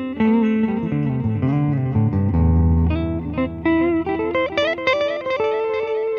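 Electric guitar playing a run of single notes through a Boss DD-7 digital delay pedal, the clean delay repeats trailing each note and overlapping, with one deep low note about a third of the way in.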